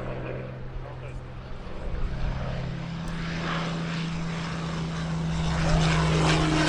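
Propeller-driven piston-engined aircraft flying over, its engine drone steady, then growing louder about five seconds in, with a slight fall in pitch near the end as it passes.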